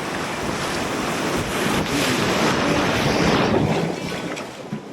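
River whitewater rushing around a kayak, with wind buffeting the microphone. The rush builds to its loudest a little after two seconds in and eases near the end.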